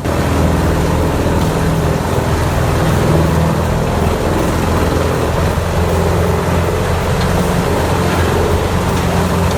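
CBI 6800CT grinder's 750-horsepower engine running steadily under heavy load, with a dense grinding noise over the low engine hum as the machine chews through timber.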